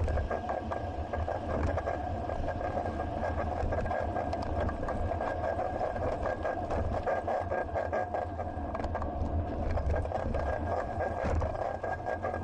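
Riding noise of a moving bicycle as picked up by an action camera carried on it: a steady rattle and low road rumble, with many small clicks and knocks and a faint steady high tone throughout.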